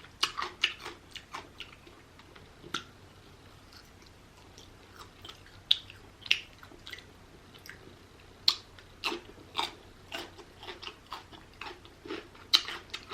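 Close-up chewing and biting of rotisserie chicken: wet, irregular mouth sounds, quieter for a couple of seconds in the middle.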